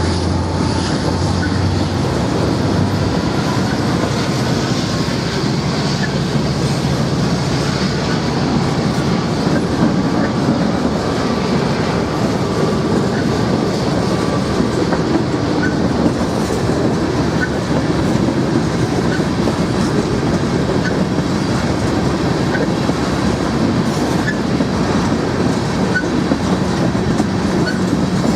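Norfolk Southern train rolling past with a steady, loud rumble of wheels on rail. A low engine tone fades out in the first few seconds, then the cars roll by with a regular faint click about every second and a half.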